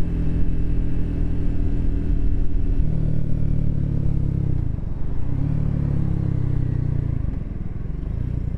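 Triumph Speed 400's single-cylinder engine running while riding. The engine note shifts about three seconds in and dips briefly about halfway through before picking up again.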